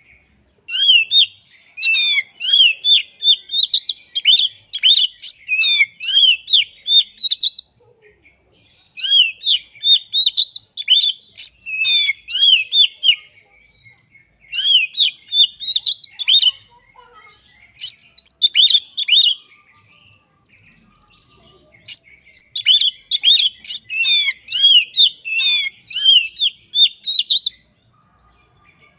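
Oriental magpie-robin (kacer) singing in fast strings of sharp, rising and falling whistled notes. It sings in several bursts of a few seconds each, with short pauses between them.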